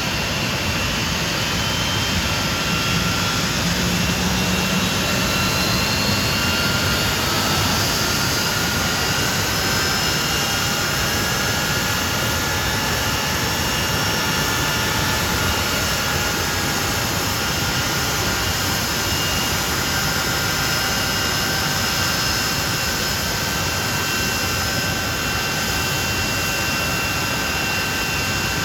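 Hawker Siddeley Nimrod's jet engines running steadily, a constant rushing noise with several high whining tones that slowly drift in pitch.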